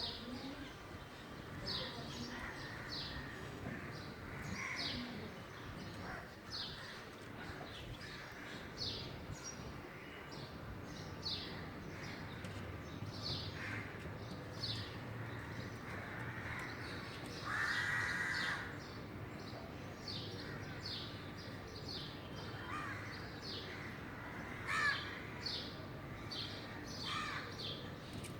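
A crow cawing among many short, high bird calls repeated throughout, with one longer, louder call a little past halfway.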